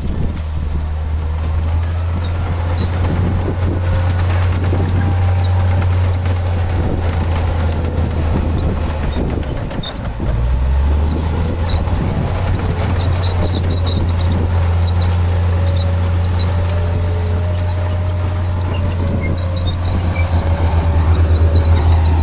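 Heavy diesel engine of a Shantui bulldozer running steadily under load, with a faint wavering whine above the low engine note. The engine note dips briefly about ten seconds in and throbs in quick pulses near the end.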